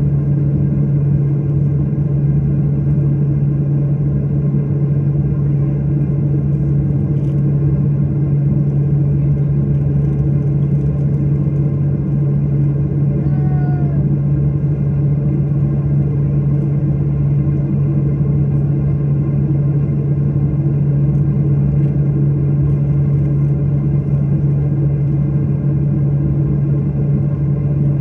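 Steady drone of an airliner heard from inside the cabin: the engines and air system running with a constant low hum, unchanging in level.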